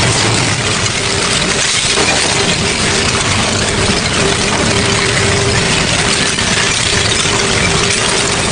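Double-shaft industrial shredder running steadily, giving a constant mechanical din with a faint held tone and no separate crashes or bangs.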